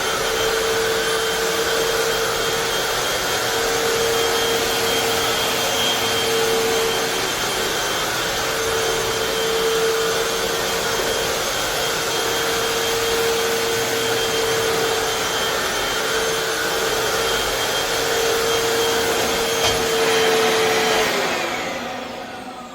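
Hoover FloorMate Deluxe wet/dry hard floor cleaner running steadily with a constant suction whine, then switched off near the end, its motor winding down in falling pitch.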